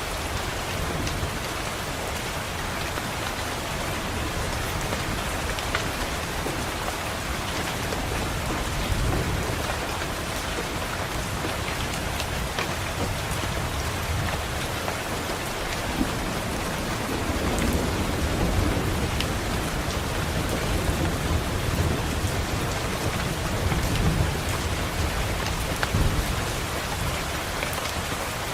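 Steady rainfall, with low rolling thunder that swells through the second half.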